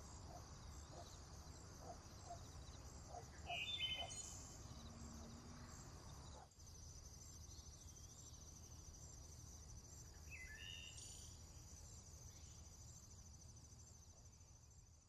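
Faint nature ambience: crickets or other insects chirring steadily, with a short bird call about three and a half seconds in and another about ten and a half seconds in.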